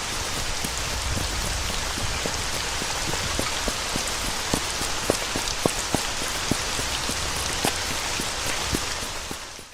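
Steady rain with scattered individual drops tapping on a surface, fading out near the end.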